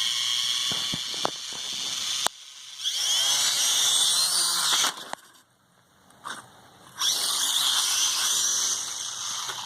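Drone motors spinning up with a high whine in three short throttle bursts, the pitch rising and falling, with a short pause between the second and third and a few sharp clicks in the first. The motors are being run to show a fault in which a drone motor does not spin.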